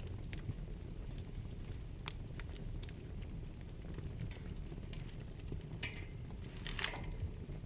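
Wood fire burning in a fireplace: a steady low rumble with scattered sharp crackles and pops, and a short run of louder crackles near the end.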